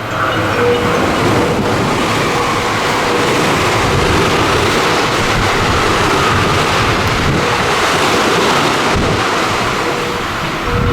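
JR West Special Rapid (Shin-Kaisoku) electric train passing through the station at speed without stopping: a loud, steady rush of wheel and air noise that comes up suddenly and eases off near the end.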